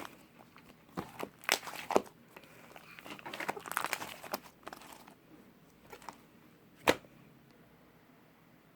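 Slime being played with by hand: crinkling, crackling pops and clicks, a few sharp ones early, a denser crackling stretch in the middle, and one loud sharp pop near the end, after which it goes quiet.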